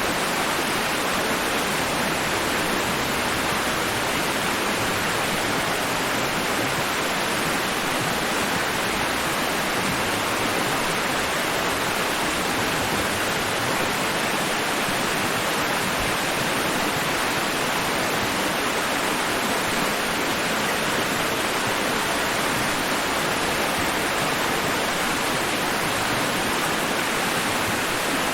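White noise for sleep: a steady, even rushing hiss that does not rise or fall.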